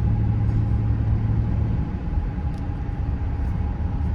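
A 2006 GMC Sierra 1500 with the 5.3-litre V8, heard from inside the cab while cruising: a steady low rumble of engine and road noise. A low drone in it eases off about halfway through.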